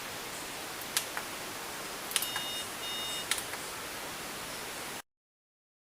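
Several sharp clicks like buttons being pressed, and two short electronic beeps a little over two seconds in, from an appliance's control panel, over a steady hiss.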